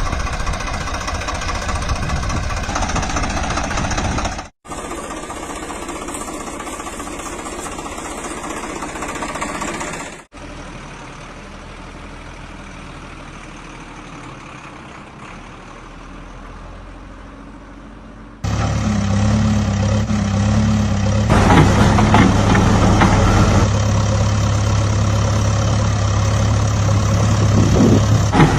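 Heavy vehicle engines idling and running, in several separate clips that change abruptly. The last and loudest stretch is a steady low engine hum.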